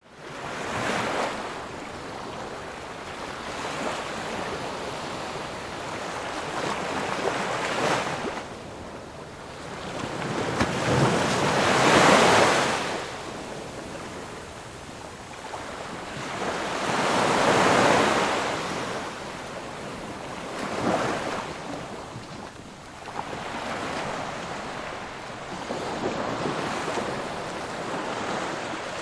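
Ocean waves washing in and pulling back, a steady rush of surf that swells and fades every few seconds; the biggest wave comes about twelve seconds in, with another strong one near eighteen seconds.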